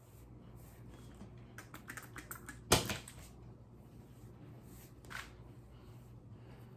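Small handling noises: a run of light clicks and rustles from hands working through hair and product containers, with one sharper knock a little under three seconds in and a short brushing hiss about five seconds in.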